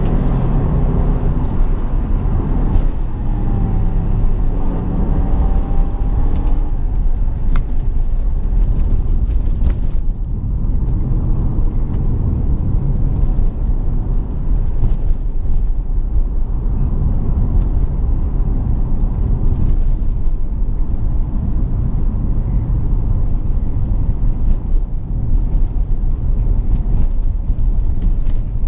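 BMW 650i's V8 engine running with road noise while driving. The engine note rises and falls through the first several seconds, then settles into a steady low rumble.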